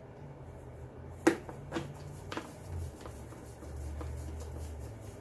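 Clicks and handling knocks of the leaf blower's plastic housing as screws are put back in, one sharp click about a second in followed by two lighter ones, over a low steady hum.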